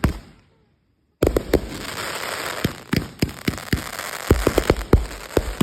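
Fireworks going off: after a brief dead-silent gap, a loud, steady crackling hiss starts about a second in, with many sharp bangs in quick succession through it.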